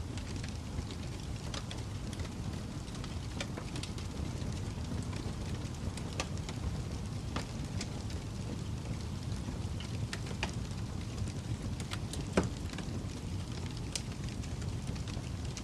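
Fire crackling over a steady low rumble, with irregular small pops and one louder pop about twelve seconds in.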